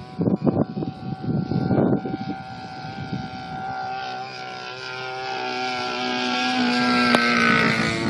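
Single-cylinder two-stroke DLE 30 gas engine of a large RC P-51 Mustang model running steadily in flight through a Keleo exhaust. It grows louder as the plane approaches and drops in pitch as it flies past near the end. Rough bumps of noise break in during the first two seconds.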